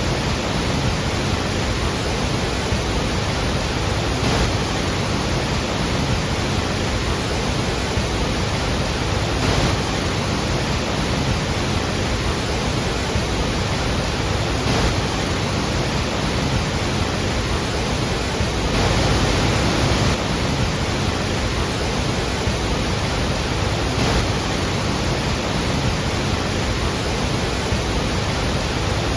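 Large waterfall pouring, a loud, steady roar of falling water with slight surges now and then.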